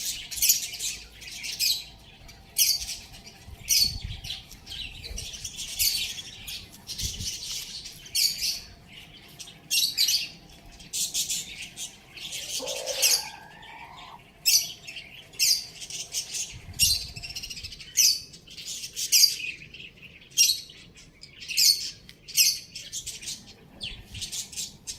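Small birds chirping: many short, high-pitched chirps one after another, with a single lower squawk about halfway through.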